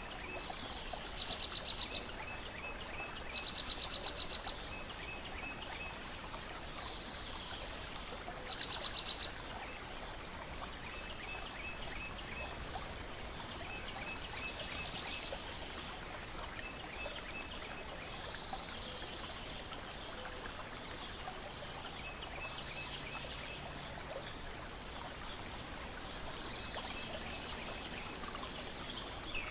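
Water lapping and trickling in a steady hiss, with birds singing: three loud, fast trills in the first ten seconds, and a short run of high notes repeated every few seconds.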